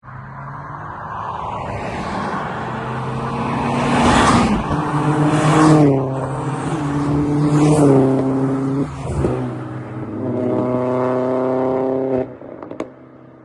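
Turbocharged car engine accelerating hard through the gears: its pitch climbs and drops at each shift, about four times, with a short rush of noise at each change. It then runs more steadily before falling away near the end.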